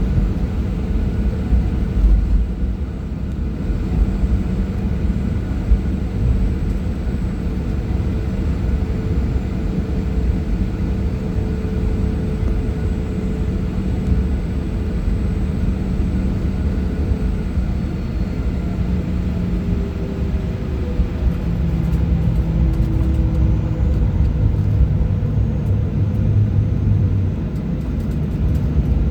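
Boeing 737-800 jet engines and airflow heard from inside the cabin: a steady low rumble with a few engine tones that slowly shift in pitch, swelling slightly near the end.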